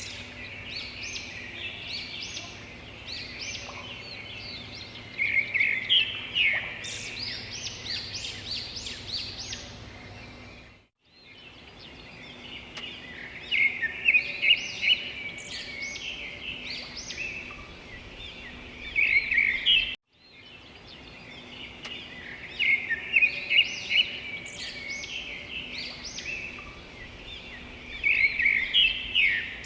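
A chorus of small songbirds chirping and twittering in dense, overlapping flurries, with a faint steady hum beneath. The sound cuts out briefly twice, about a third and two thirds of the way through.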